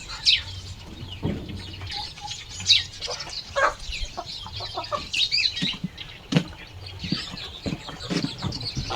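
Chickens clucking and calling, a scatter of many short calls one after another.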